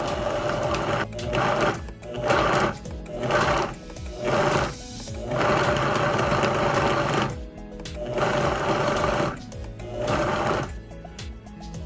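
A hand saw cutting through a log of firewood in repeated back-and-forth strokes, each stroke a rasping burst with brief pauses between, some strokes longer than others. Background music plays underneath.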